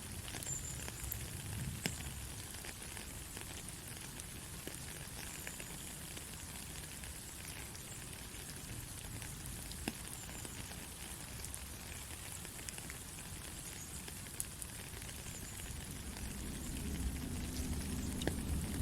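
Steady rain hissing, with scattered sharp drop ticks. A low rumble builds near the end.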